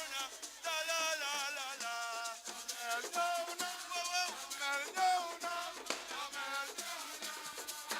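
A voice singing a melodic line in short phrases with wavering, ornamented notes, over the steady rattle of a shaker.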